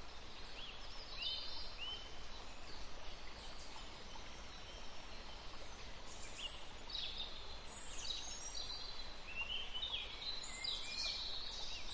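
Small songbirds chirping in short high calls and rising notes, in scattered clusters that grow busier near the end, over a steady background hiss.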